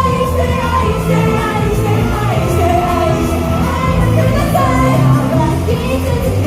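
Live idol pop performance: a loud pop song with singing over the backing track.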